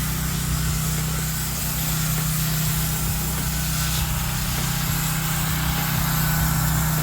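Gas-engine pressure washer running steadily: a constant engine hum under the even hiss of the water jet, during the pre-wet rinse.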